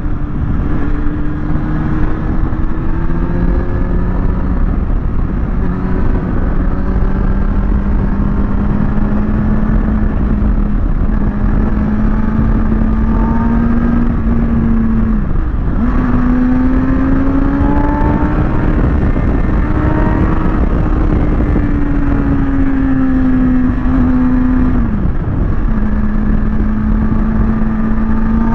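Kawasaki ZX6R inline-four sportbike engine running at fairly steady revs under way, its pitch rising and falling slowly. The revs drop off sharply twice, about halfway and near the end. Wind rushes over the microphone throughout.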